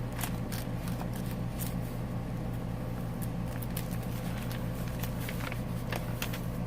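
Paper rustling with scattered light clicks and taps as the pages and tags of a handmade paper journal are handled and turned, over a steady low hum.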